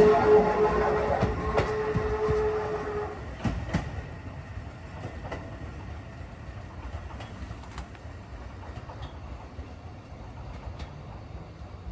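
Electric train pulling away and receding into the distance. A steady whine dies out about three seconds in, and the wheels click over rail joints in pairs. The sound then fades to a faint rumble.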